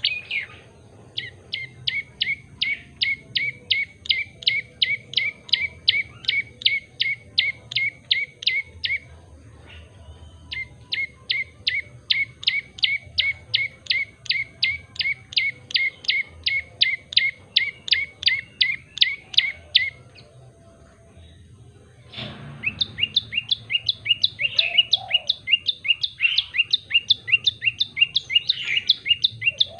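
Tailorbird singing: long runs of loud, sharp chirps repeated about three to four times a second. The song breaks off twice for a second or two. After the second pause it resumes as a faster, busier phrase.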